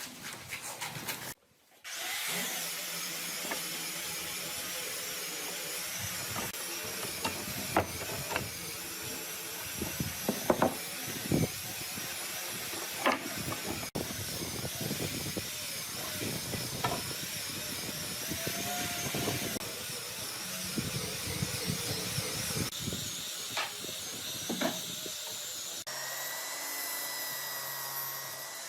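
A power tool running against wood: a steady motor whine that wavers in pitch, with scattered sharp knocks. It drops out briefly just under two seconds in.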